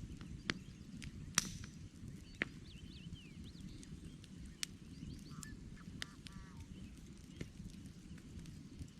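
Campfire of burning wood logs crackling: a steady low rumble of the fire with sharp pops and snaps every second or so, the loudest about a second and a half in. Birds chirp faintly in the background, with a short run of repeated notes a little past halfway.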